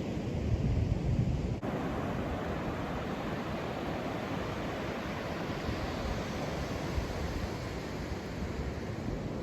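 Atlantic surf breaking and washing up a sandy beach, a steady wash of noise, with wind buffeting the microphone in the first second or so.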